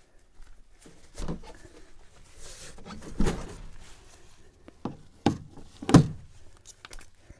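A few separate thumps and knocks, the loudest about six seconds in, as the big truck's tilted hood is seated and checked on its side.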